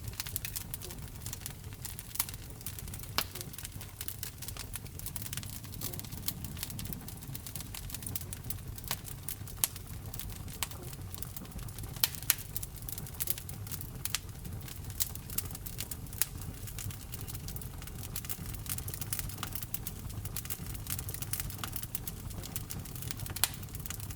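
Wood fire burning in a fireplace: irregular sharp crackles and pops over a steady low rumble of the flames, with a couple of louder pops close together about twelve seconds in.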